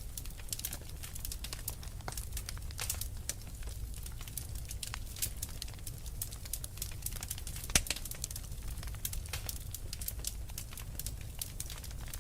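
Wood fire crackling: a dense run of small pops and snaps over a steady low rumble, with one louder pop a little past the middle.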